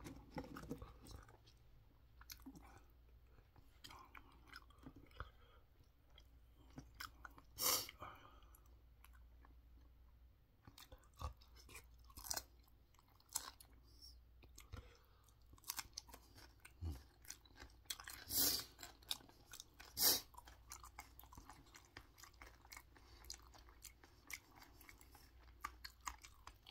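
A person chewing close to the microphone, with wet mouth sounds and the crisp crunch of raw green chili peppers being bitten and chewed; a few louder crunches come about 8, 18 and 20 seconds in.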